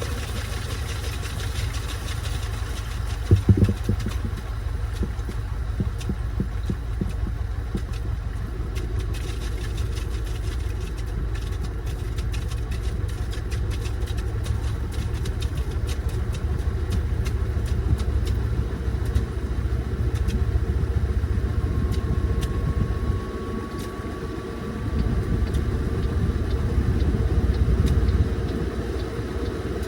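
Washing machine running a wash cycle, its motor humming and its drum churning water and a bag in a laundry net. There is a short clatter of knocks about three and a half seconds in. The churning dips briefly near the end, then picks up again.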